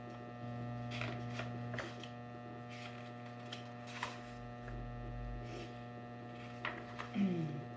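Steady electrical mains hum, with a few faint clicks and rustles.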